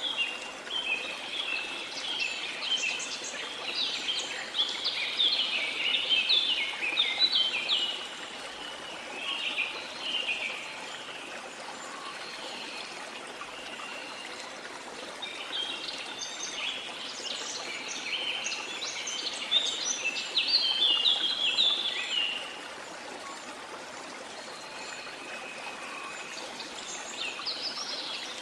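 Several birds singing in bursts of quick, busy chirping phrases over a steady rush of flowing water. The song is densest in the first eight seconds and again from about 15 to 22 seconds in.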